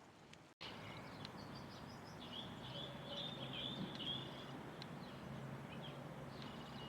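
Small birds chirping and twittering in quick high notes over steady background noise with a low hum, busiest in the middle; the sound drops out briefly about half a second in.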